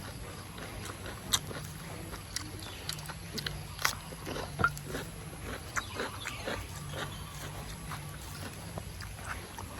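Person eating noisily: wet chewing and lip-smacking, with scattered sharp irregular clicks over a steady low background hum.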